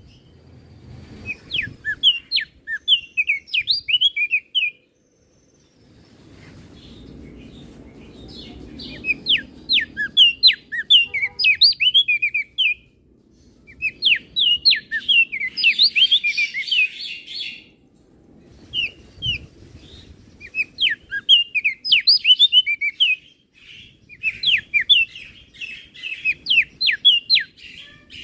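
Crested darkeye (opior jambul) singing: fast phrases of sharp, high, chirping notes, each a few seconds long and separated by short pauses.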